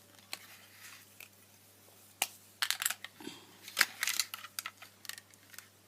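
Plastic Lego bricks clicking and knocking as they are handled and pressed together, a scatter of sharp clicks, densest in the middle with the loudest snap a little before four seconds in.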